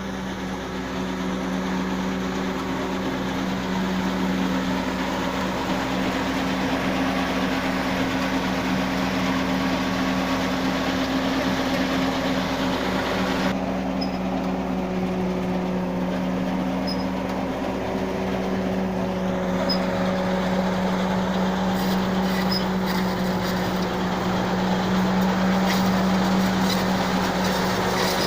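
Tractor engine and its PTO-driven Napier grass harvester running steadily, a constant mechanical drone. Scattered sharp clicks and knocks come in over the drone during the last several seconds.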